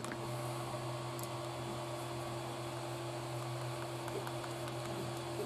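Steady low electrical hum with hiss, and a couple of faint small ticks.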